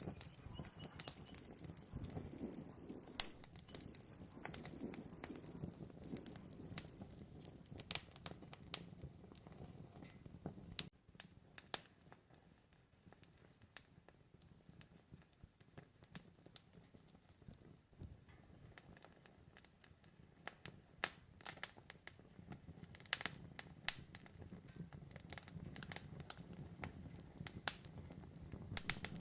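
A wood campfire crackling, with sharp snaps and pops over a low rustle. A cricket chirps in a high pulsing trill over it and stops about eight seconds in. After that the fire crackles on more sparsely, with a few louder pops near the end.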